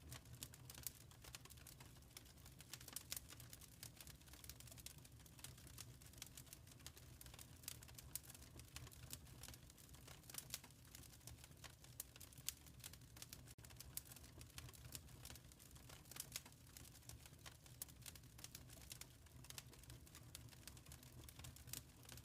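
Wood fire crackling quietly in a fireplace: irregular small pops and snaps, many a second, over a steady low rumble.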